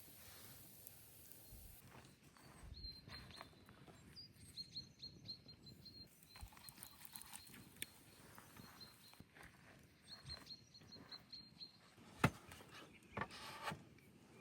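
Faint outdoor ambience with a bird singing two quick runs of short, high notes, one early and one about ten seconds in. Soft knocks throughout, with one sharp click near the end followed by a few more knocks.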